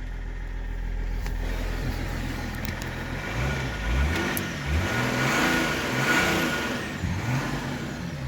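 2006 Range Rover L322 engine running just after starting, with the engine revving up and down several times in the middle. It starts now that the stuck ignition-barrel solenoid has been freed.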